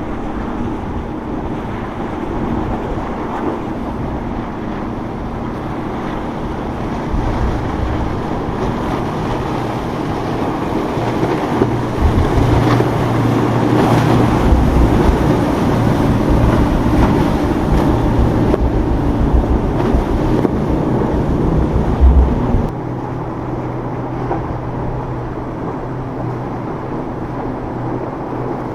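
Motorboat engines running, growing louder about twelve seconds in and dropping off suddenly about two-thirds of the way through, with wind buffeting the microphone.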